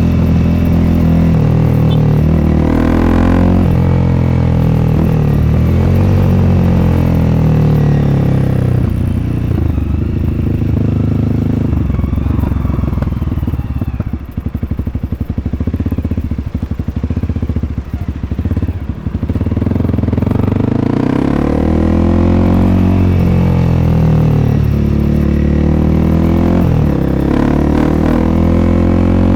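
Honda CRF300L's single-cylinder four-stroke engine through an FMF Q4 aftermarket exhaust, ridden with the revs rising and falling through gear changes. Midway it drops for several seconds to a low, evenly pulsing idle, then pulls away again with rising revs.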